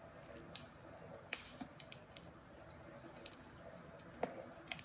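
Campfire crackling: irregular sharp pops and snaps of burning wood, a few a second at most, over a faint hiss.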